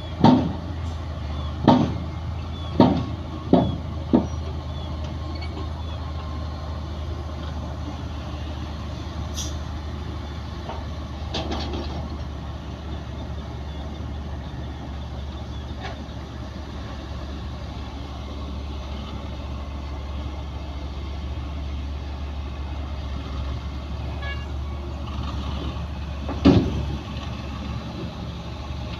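Heavy diesel earthmoving machinery running steadily with a low drone. Five sharp knocks come in quick succession in the first few seconds, and one more comes near the end.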